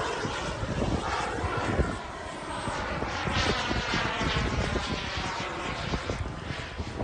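Radio-controlled model airplane engine passing overhead, its pitch falling steadily as it moves away.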